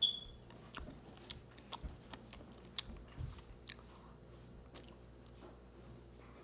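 Mouth sounds of eating mochi ice cream: soft, sticky clicks and smacks of lips and teeth on the chewy rice dough, frequent in the first few seconds and sparser later. A short high squeak comes right at the start.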